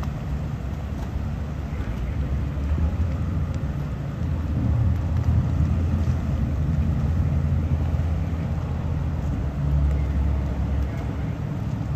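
Low, steady rumble of boat engines with some wind noise. It swells louder for a few seconds in the middle and again briefly near the end.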